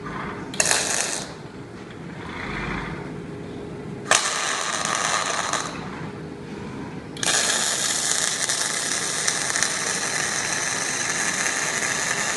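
Automatic welding robot's arc crackling and hissing in bursts: a short burst about half a second in, a longer one around four seconds in, then a long steady weld from about seven seconds on.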